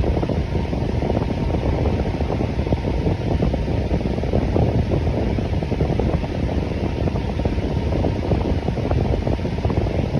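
Electric fan running steadily: an even whoosh of moving air, mostly low in pitch, with a faint motor hum.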